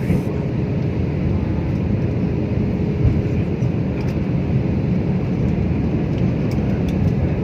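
Jet airliner cabin noise in flight: a steady low rumble of engines and airflow with a faint steady hum.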